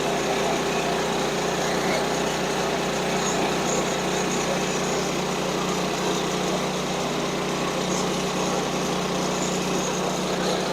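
Small gasoline engine of a Woodland Mills portable bandsaw sawmill running steadily at constant speed.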